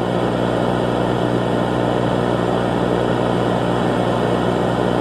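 A steady, even droning hum with a hiss over it, unchanging throughout.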